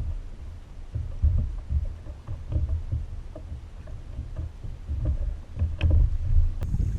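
Uneven low rumbling of water and wind around a fishing kayak, with a few light knocks near the end.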